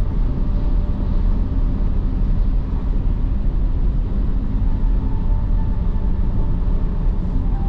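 Steady road and tyre noise with engine hum, heard from inside a car's cabin at highway speed.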